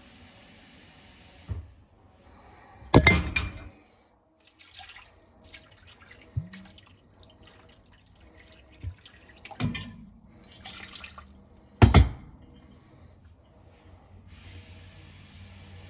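Water rinsing inside a dishwasher tub, splashing and dripping in irregular bursts, with two louder splashes about three seconds and twelve seconds in.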